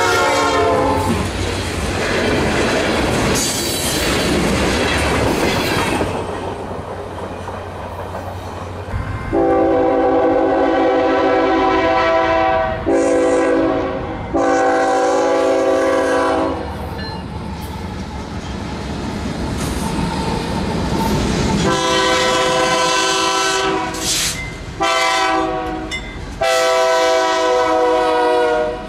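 A diesel freight locomotive and its cars pass close by with a heavy rumble and wheels clattering on the rails, a horn blast cutting off about a second in. Then an approaching freight locomotive sounds its multi-note horn in two sets of three blasts, each set long, short, long, with the train rumbling between the sets.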